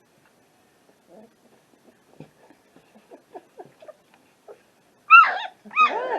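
Young Belgian Malinois–Labrador cross puppies giving faint little squeaks and grunts, then, about five seconds in, two loud whines that rise and fall in pitch.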